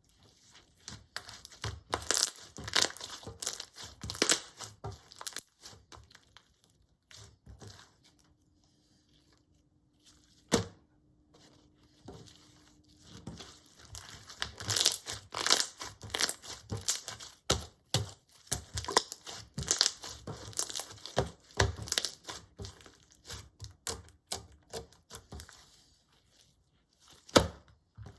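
Clear slime being kneaded, squeezed and stretched by hand as colouring is worked in, giving irregular wet clicks, pops and crackles. The handling pauses for a few seconds about a third of the way in, then picks up again with a sharp pop.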